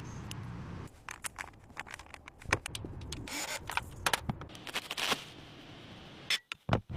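Scraping, rubbing and scattered clicks of hands working on materials. A steady low hum stops about a second in, and two longer scrapes come in the middle.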